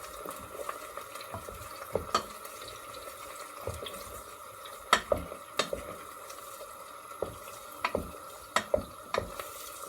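Onions and carrots being stirred in a frying pan: scattered knocks and scrapes of the spoon against the pan, most of them in the second half, over a faint steady frying sound.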